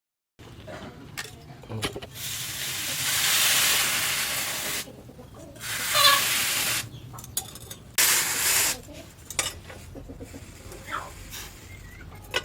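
Hot forged steel of a knife blade being quenched, giving three bursts of hissing, sizzling steam, the first and longest lasting nearly three seconds.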